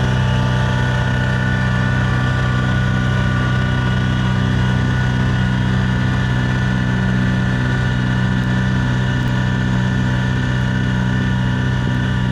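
Diesel snow-blowing equipment's engine running at a steady speed, an even drone with no change in pitch.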